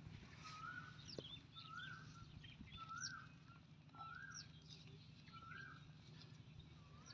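Faint bird calls: one bird repeats a short rising call about once a second, six times, with higher chirps from other birds. A low steady hum runs underneath.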